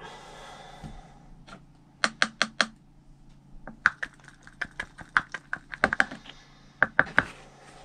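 Wooden stirring stick clicking and tapping against a thin clear plastic cup while two-part epoxy resin is mixed, in quick runs of sharp clicks.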